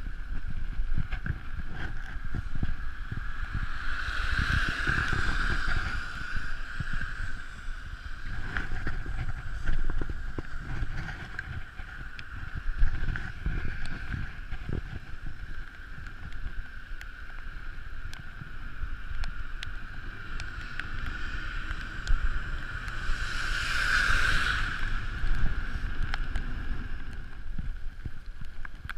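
Wind buffeting the microphone and road rumble while a mountain bike rolls down a paved highway, under a steady high whine. The hiss swells twice, a few seconds in and again near the end.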